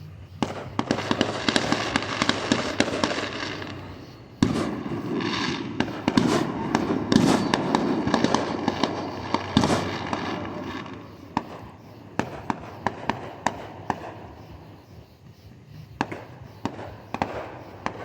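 Fireworks going off as dense rapid crackling pops in two long bursts, the second starting about four seconds in. Fewer, separate pops follow through the second half.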